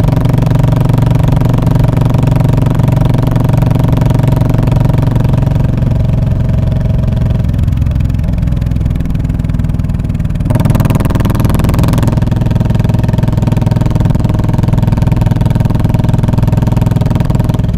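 Royal Enfield Classic 500 single-cylinder engine running through its muffler: a steady, low exhaust note that drops slightly in pitch partway through. About ten seconds in there is a short, louder stretch with a hissy rush.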